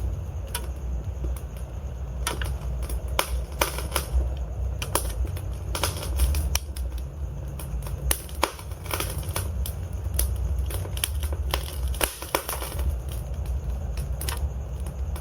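Logs burning in a fireplace, crackling with frequent sharp pops over a steady low rumble of the flames.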